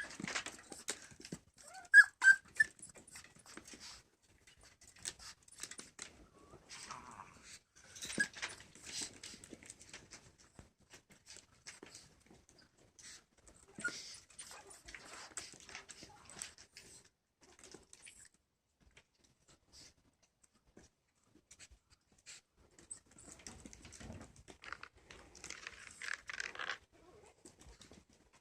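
Chihuahua puppies, a few short high squeaks about two seconds in, with scattered scratchy rustling and clicks as they move about.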